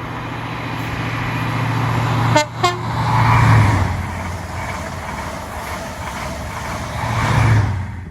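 Class 43 HST high-speed diesel train passing at speed, sounding two short horn notes about two and a half seconds in. The engine and wheel noise peaks just after the horn, stays loud, swells again near the end, then cuts off abruptly.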